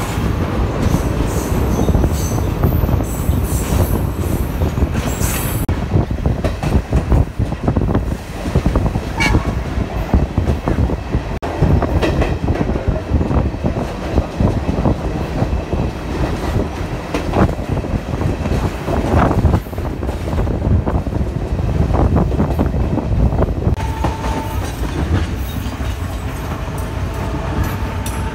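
Passenger trains running on rails: steady rumble and clatter of carriage wheels over the track joints, with high wheel squeals in the first few seconds and a faint steady tone joining in near the end.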